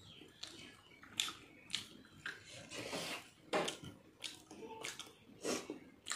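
Close, wet chewing and lip-smacking of a person eating a mouthful of rice and curry by hand, with many short sharp smacks and clicks at irregular intervals.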